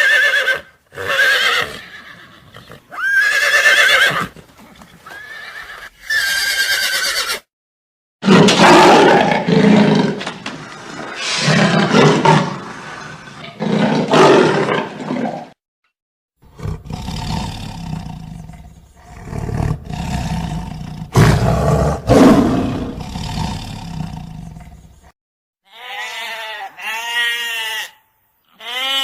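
A series of different animals' calls, each a few seconds long with short silences between: high pitched calls first, then long, loud, noisy calls, and bleating near the end.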